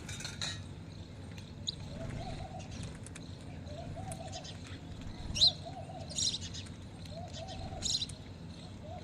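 A dove cooing, a short low note repeated about every one and a half seconds, over scattered high, sharp chirps from other birds; the loudest chirp comes about halfway through.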